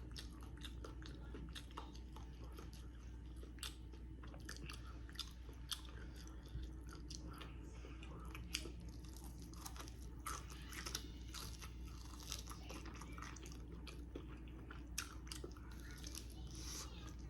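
Close-miked chewing and crunching of crispy fried chicken: a string of small, irregular crunchy clicks, faint and without a steady rhythm, over a low steady hum.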